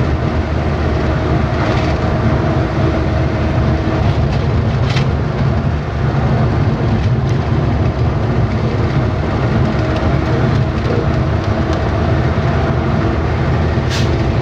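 Truck engine running under way, a steady low drone with road noise and no change in pace.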